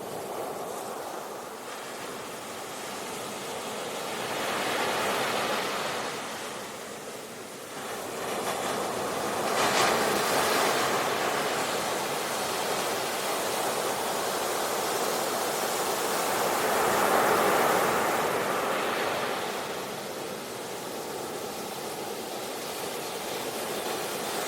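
Sea waves breaking and washing up a beach, the surf swelling and ebbing in slow surges every several seconds.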